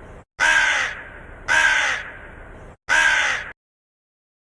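Crow cawing: three harsh caws about a second apart, each with a fading raspy tail, then it cuts off suddenly.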